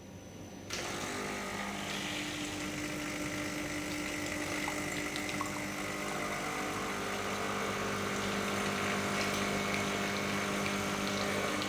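De'Longhi Icona espresso machine's pump switching on about a second in and running with a steady hum as hot water flushes through the group into a cup, priming the boiler circuit; it stops at the very end.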